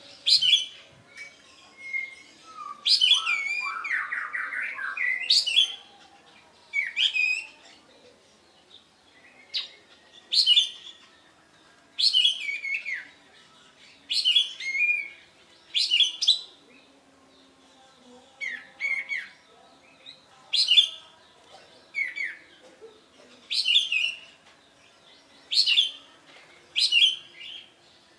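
Kapas tembak bird singing in full voice: short, loud whistled phrases repeated every second or two, with a longer burst of notes about three seconds in.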